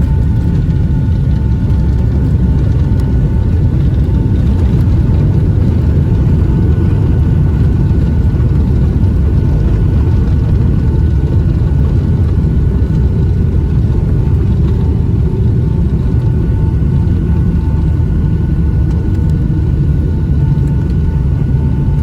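Boeing 757-200 heard from inside the passenger cabin during landing: a steady, loud engine and airflow rumble with two faint steady whining tones above it.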